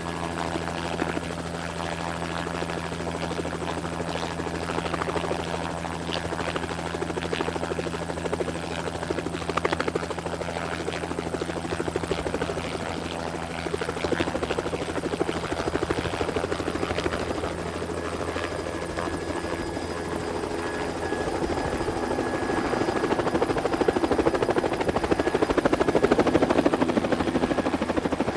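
Helicopter sound effect dubbed over drone footage: a helicopter running steadily, growing louder about three quarters of the way through.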